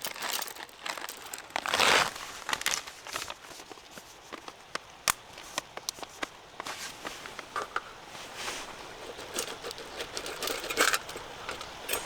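Crinkling and rustling handling sounds with scattered sharp clicks, louder in two short bursts about two seconds in and near the end.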